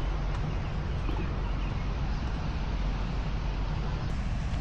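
Steady rushing noise of the Big Sioux River falls over quartzite ledges, with a low rumble underneath.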